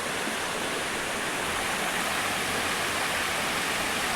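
Waterfall: the steady rush of water falling and splashing onto rocks, heard from close by at its foot.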